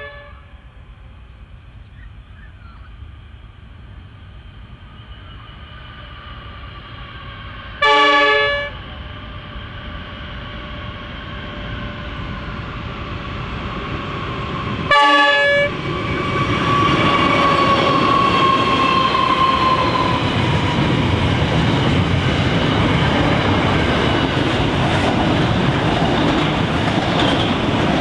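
An NR class GE diesel-electric locomotive on an intermodal freight approaches and sounds two short blasts of its multi-tone horn, about eight and fifteen seconds in. Its engine grows steadily louder and passes with a falling tone. The container wagons follow, clattering along the track.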